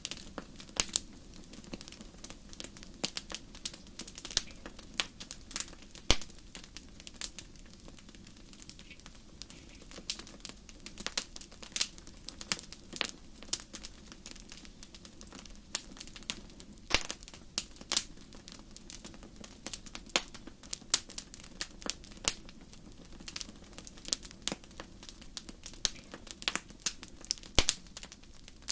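Wood fire burning in a fireplace: irregular sharp crackles and pops over a low, steady hiss of the flames.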